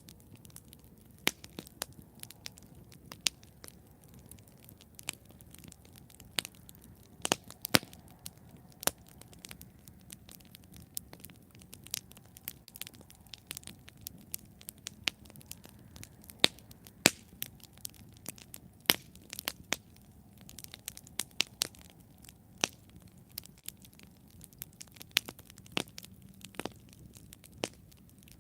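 Wood campfire burning with irregular sharp crackles and pops, several a second, over a faint low rumble of the flames.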